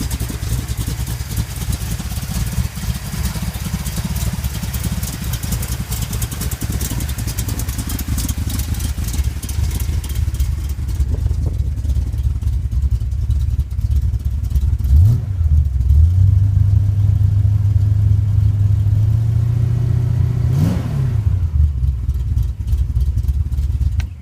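Chevrolet 454 big-block V8 running, a deep steady rumble with a busy clatter over it for the first ten seconds or so. Two quick blips of the throttle, about 15 and 21 seconds in, each rising and falling in pitch.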